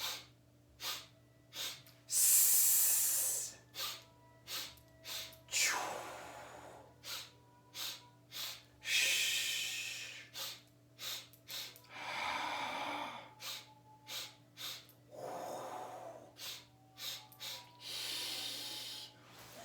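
A man's qigong sipping breath: three short, sharp sips of air with brief holds, then one long breathed-out healing sound, about every three seconds. This happens six times, and each exhalation is a different one of the Six Healing Sounds, some hissing, some softer.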